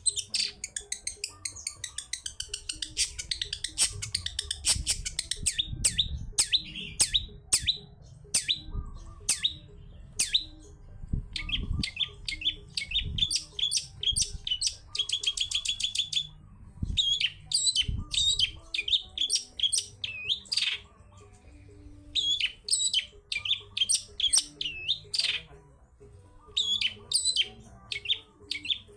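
Long-tailed shrike (cendet) singing a busy, varied song of rapid sharp chirps and harsh notes, with a fast even trill about halfway through and a few short pauses. The song mixes in imitations of other birds.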